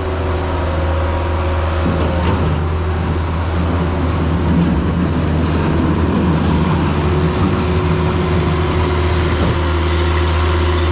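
Vehicle engine idling: a steady low drone that holds even throughout.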